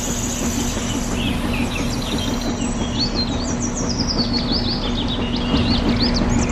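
Birds chirping in quick, repeated high calls, growing busier about a second and a half in, over a steady low mechanical hum.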